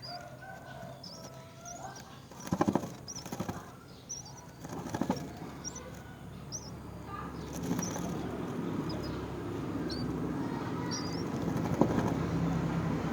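Birds at a myna nest: short high chirps repeat throughout, with two loud bursts of wing flapping about two and a half and five seconds in. A rougher rustling builds through the second half, with a sharp click near the end.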